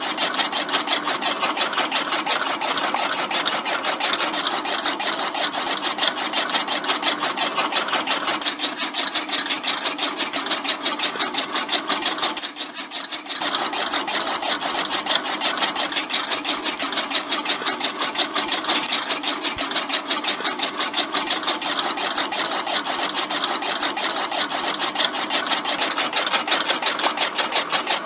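Small electric motor driving a homemade miniature chaff cutter, running with a rapid, even mechanical clatter that dips briefly about halfway through.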